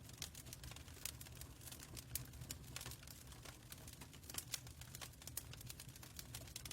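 Faint wood fire crackling: irregular sharp pops and snaps, several a second, over a low steady rumble.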